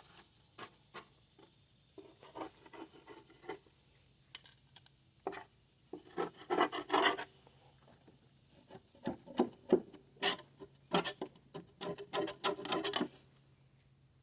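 Small hand scraper scraping wet, soapy grass clippings off the underside of a Toro 22-inch mower's painted metal deck, in irregular runs of short strokes that stop about a second before the end.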